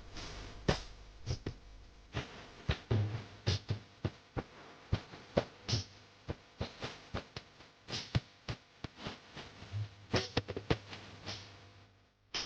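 An irregular series of sharp clicks and knocks, roughly two to three a second, over a faint low hum.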